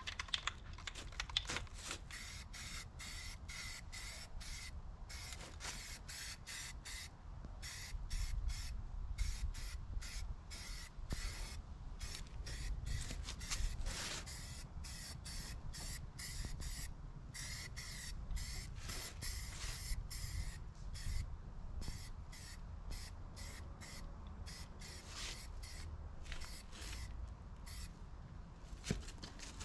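Hand sanding the skid steer's bodywork with 220-grit sandpaper: quick back-and-forth rasping strokes with short gaps between them.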